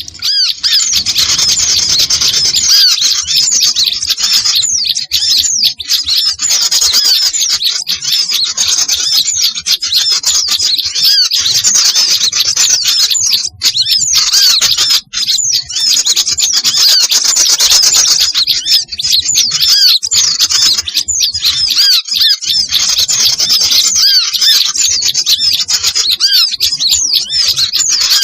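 Dense, unbroken chorus of many small songbirds chirping and calling over one another, a noisy small-bird lure recording (burung kecil ribut) used to draw wild birds in.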